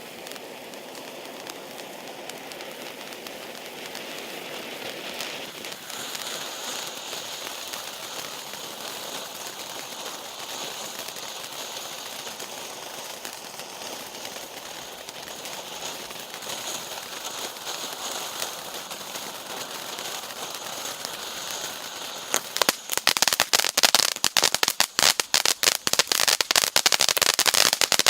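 Cricket (Сверчок) firework hissing steadily as it sprays sparks. About 22 seconds in it breaks into dense, loud, rapid crackling from its crackling sparks.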